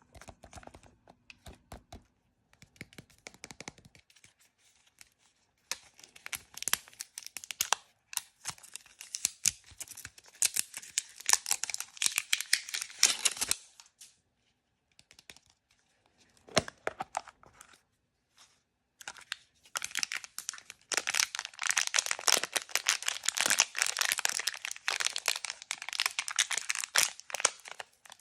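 Blind-bag packaging being crinkled and torn open by hand, with dense crackling rustles. It comes in two long stretches separated by a pause of a few seconds, with lighter handling rustles before and between.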